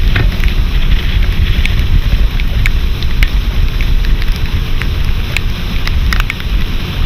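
Wind buffeting the microphone on an open boat: a steady, rough rumble and hiss with a few faint clicks.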